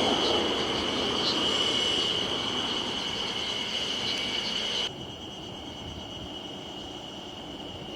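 Freight train rolling by on the sugar-factory siding, its wheels giving a steady high squeal over the rumble of the wagons as it draws away. The sound drops off suddenly about five seconds in, leaving a fainter squeal.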